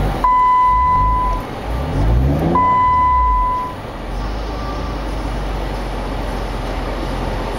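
Two long electronic beeps, each about a second, with the Jeep Wrangler JK Unlimited's engine revving briefly between them; from about four seconds in, the engine idles steadily.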